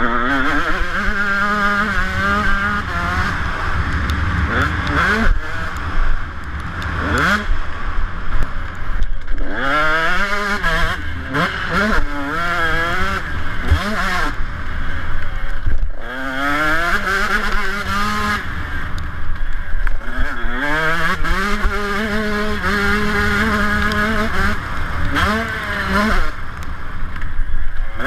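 Motocross bike engine being ridden hard, revving up and easing off again and again: the pitch sweeps upward, holds, then drops between bursts of throttle, with a low rumbling noise underneath.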